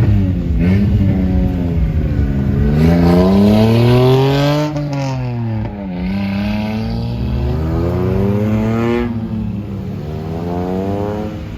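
Straight-piped exhaust of a modified car being free-revved, the engine note climbing and falling in several long sweeps.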